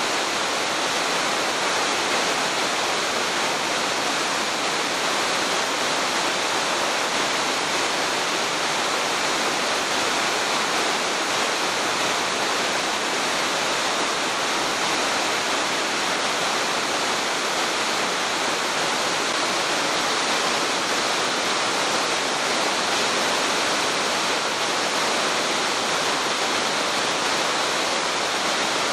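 Shirahige Falls, a waterfall pouring down a cliff into a gorge, giving a steady, unbroken rush of falling water.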